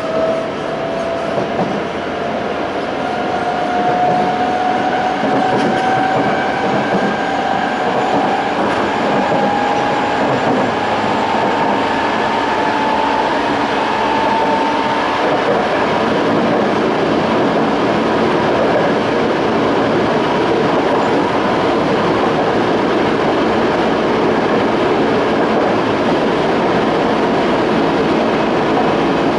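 Running sound inside a Toei 5300-series train car fitted with a Hitachi-built Mitsubishi GTO-VVVF inverter. A thin motor and inverter whine rises steadily in pitch through the first fifteen seconds or so as the train accelerates, then gives way to steady wheel-and-rail running noise.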